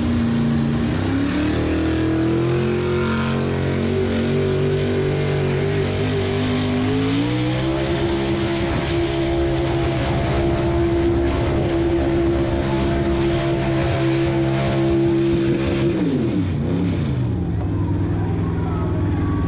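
Outlaw 4x4 pulling truck's engine at full throttle under load while dragging the sled. Its pitch climbs in two steps, about a second in and about seven seconds in, holds high, then drops sharply about sixteen seconds in as the throttle is lifted at the end of the pull.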